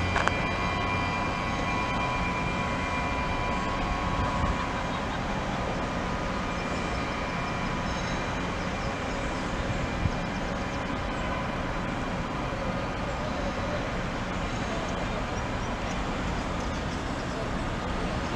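Siemens Desiro electric multiple unit running slowly along the track away from the listener. A steady rumble of wheels and running gear, with a faint whine in the first few seconds that fades away.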